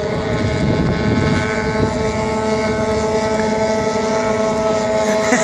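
Outboard racing boat engine running hard at a steady, even pitch.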